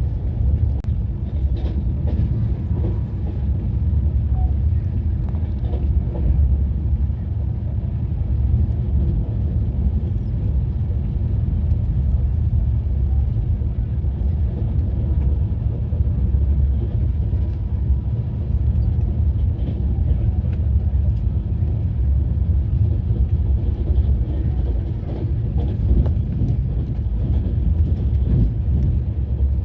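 Passenger train running at speed, heard from inside the coach as a steady low rumble with faint scattered clicks.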